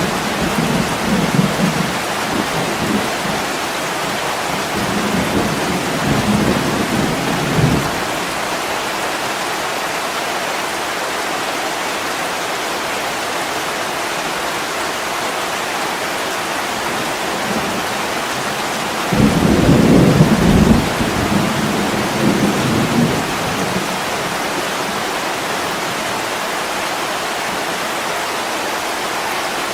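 Heavy rain pouring steadily against a window, with low rolls of thunder rumbling through the first several seconds and again about two-thirds of the way in.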